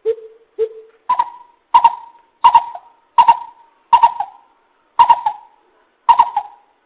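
Greater coucal calling a series of nine short, deep notes. The first two are low, the rest step up in pitch, and the gaps between notes widen slightly towards the end.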